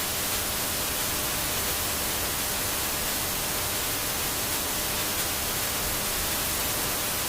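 Steady, even hiss like static or white noise, spread evenly from low to high pitch with no change in level, starting and stopping abruptly.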